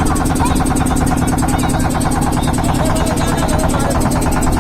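A loud, steady motor-like drone with an even, rapid pulsing, with faint distant voices over it.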